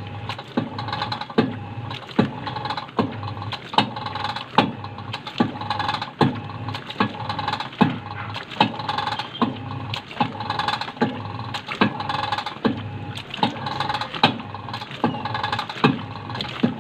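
Union Tech top-load automatic washing machine on spin, its motor and drum humming steadily with a sharp click a little over once a second from the newly fitted replacement gearbox. This rhythmic clicking is the fault, heard since the gearbox was installed.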